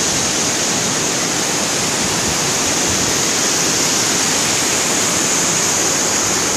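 Waterfall rushing, a loud, steady roar of falling water with no breaks.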